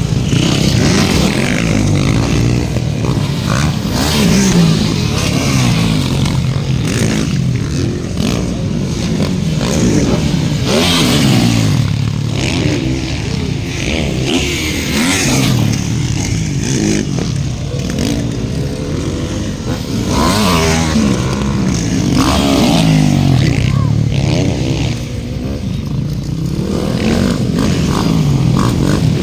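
Several motocross dirt bikes racing round the track, their engines revving up and dropping back again and again as the riders accelerate and shift, several machines overlapping.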